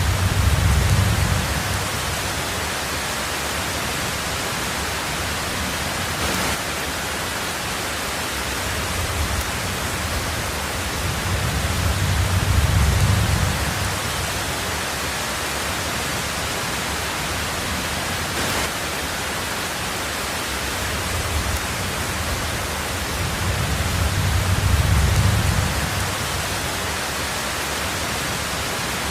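Heavy rain drumming steadily on a tin roof, a constant hiss, with a low rumble of distant thunder swelling three times, about twelve seconds apart.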